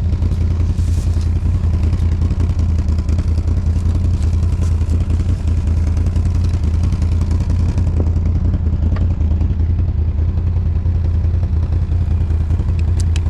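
ATV engine running steadily close by, with an even low hum that neither rises nor falls; a few light clicks come near the end.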